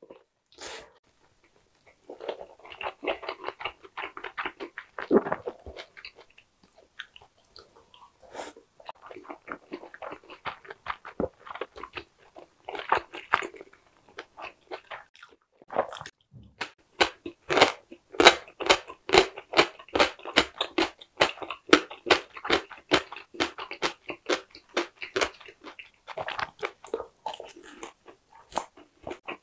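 Close-miked chewing of a large steamed meat dumpling, soft and wet. About halfway through it turns into a fast run of sharp, crisp crunches as pickled radish is chewed, and near the end comes a bite into a crispy pan-fried dumpling.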